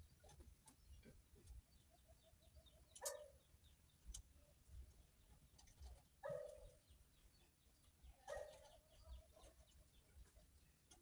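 Faint bird calls: three louder calls about three, six and eight and a half seconds in, the first and last each joined to a run of quick short notes, with faint high chirps throughout.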